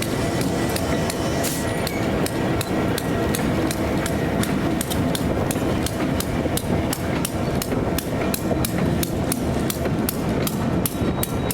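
Freight train rolling past, its wheels clicking over rail joints over a steady low rumble. The clicks come faster toward the end, from about two to about four a second, as the train picks up speed.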